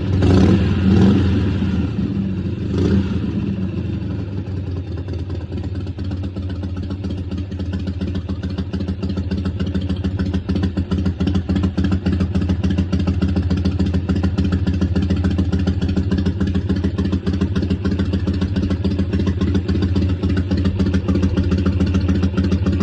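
1988 Harley-Davidson Softail's Evolution V-twin running after repair work, blipped twice near the start and then idling steadily. The engine cuts off at the end.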